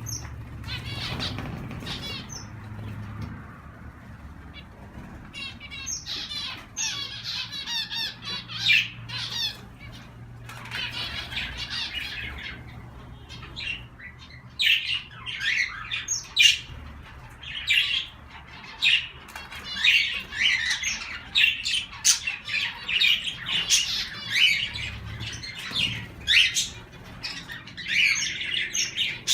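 A mixed group of pet cage birds (budgies, zebra finches, a canary and a cockatiel) chirping, chattering and squawking in many short overlapping calls, with wings flapping. The calls start sparse and grow busier through the second half.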